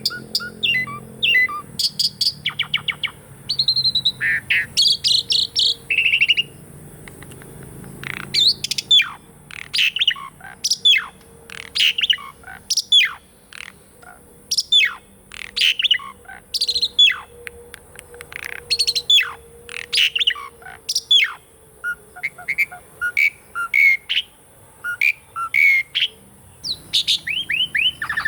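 Asian pied starling (jalak suren) singing a varied song of whistles and chattering notes, with a long run of sharp, quickly falling whistles repeated about once a second through the middle and quicker, shorter notes and trills near the end.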